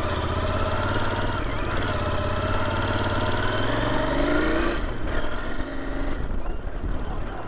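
Royal Enfield Interceptor 650's parallel-twin engine running under way on dirt. Its pitch rises around four seconds in, then drops back to a lower, rougher running as the throttle eases.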